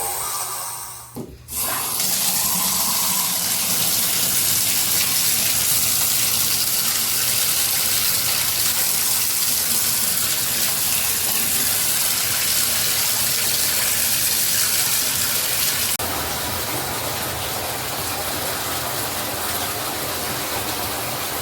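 Water running hard and steadily from a bathroom tap or shower, starting up after a brief lull about a second in and dropping slightly in level near the end.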